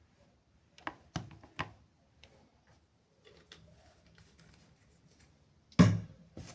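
Sharp knocks and clicks of hard objects being handled: three in quick succession about a second in, faint ticking after, and a louder, deeper knock near the end.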